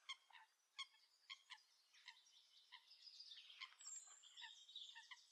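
Faint wetland bird calls: about a dozen short, sharp chirps at irregular intervals, each sliding quickly down in pitch, with a thin high whistle a few seconds in.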